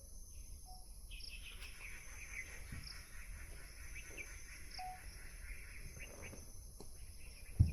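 Forest ambience: insects buzzing steadily at a high pitch while birds call and chatter, with a couple of short whistled notes. A sharp thump sounds near the end.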